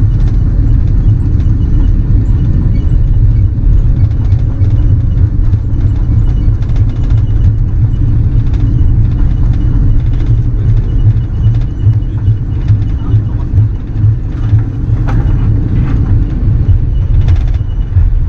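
Steady low rumble inside an Airbus A330-300 cabin as the jet rolls on the ground after landing, with faint scattered rattles.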